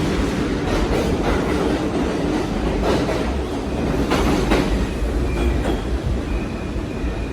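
Subway garbage train with a retired R42 car rolling through without stopping: a steady rumble of steel wheels, with irregular clacks as the wheels cross rail joints. A faint high wheel squeal enters about five seconds in.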